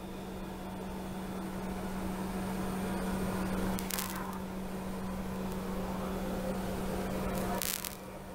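A steady electric motor hum with one low drone-like tone, swelling slowly and dropping off sharply near the end, with a few faint clicks.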